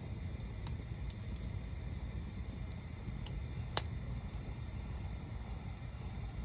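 Stacked-log bonfire burning, with a low steady rumble and a few sharp crackles and pops from the wood. The loudest pop comes just before the middle.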